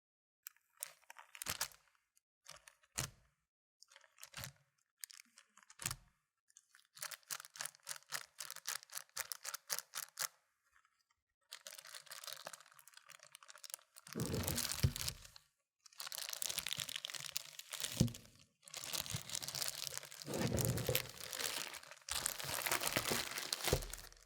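Close-miked packaging of a Google Pixel Watch retail box being opened: a few sharp taps and clicks, a quick run of rapid ticks, then long stretches of tearing and crinkling as the wrapping is pulled off.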